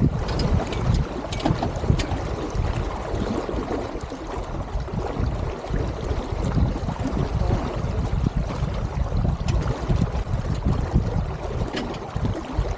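Wind buffeting the microphone over water sloshing against the hull of an Elliott 7.4 sailing keelboat, with a few light clicks.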